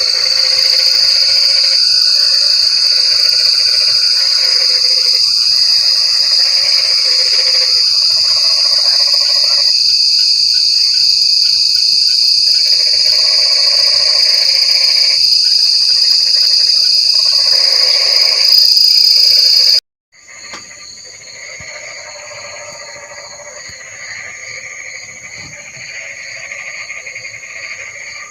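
A frog chorus calling in bouts of a few seconds, over a loud, steady, high-pitched insect trill. About 20 seconds in, the sound cuts off for a moment and comes back much quieter, with the high trill now pulsing and the frogs still calling.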